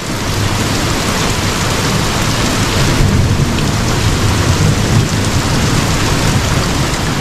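Torrential rain pouring steadily, with a low rumble underneath.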